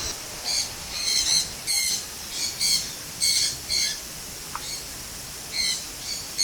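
Parrots squawking: short, harsh, high-pitched calls repeated in quick runs, with a pause of about a second and a half partway through.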